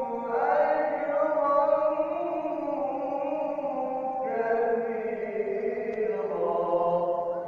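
Quran recitation (tilawah): a reciter's voice sung in long, ornamented melodic phrases, with a new phrase beginning about four seconds in.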